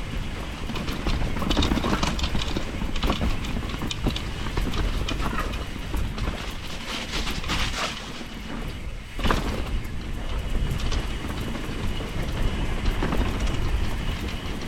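Enduro mountain bike descending a wet, rough trail: a steady rumble of tyres on dirt, with frequent rattles and knocks from the bike over roots and rocks.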